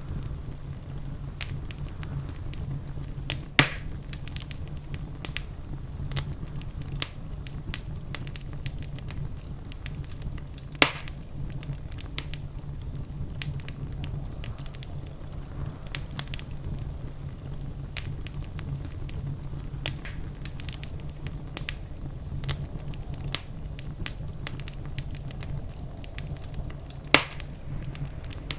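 Fireplace fire crackling steadily, with many small snaps and three much louder sharp pops, over a steady low rumble.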